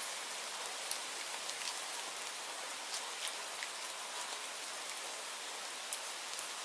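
Steady rain falling as an even hiss, with scattered sharp ticks of single drops striking a surface.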